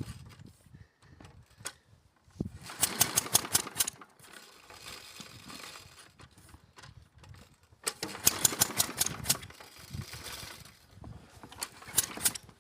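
Cold Mountfield Emperor lawnmower's petrol engine being pull-started: three pulls on the recoil starter, about three, eight and twelve seconds in, each spinning the engine over in a quick run of strokes that dies away without it catching. The cold engine is hard to start.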